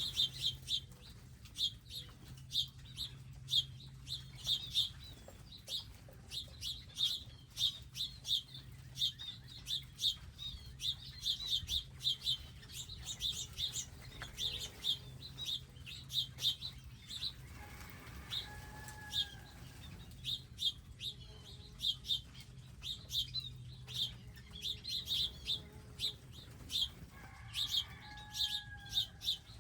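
Small birds chirping constantly, many quick high chirps in a busy run. Two longer, lower calls stand out, about eighteen seconds in and again near the end.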